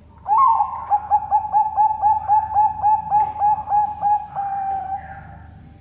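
Zebra dove (Bangkok perkutut) singing one full song: an opening note, then a fast run of about a dozen short coos at about four a second, ending on a longer held note.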